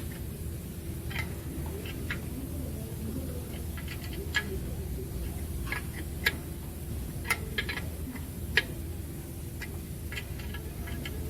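Engine running with a steady low hum and irregular sharp ticks: the ticking noise that comes with the misfire code.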